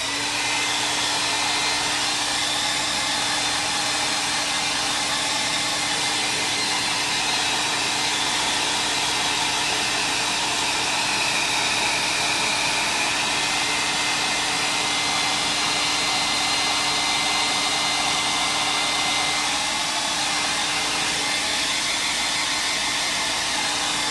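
Handheld electric dryer switched on and running steadily, blowing air to dry wet paint on a journal page, with an even rushing noise and a constant motor hum.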